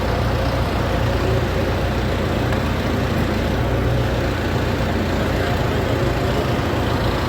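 Tractor diesel engine running steadily at close range, a continuous low hum with engine noise over it.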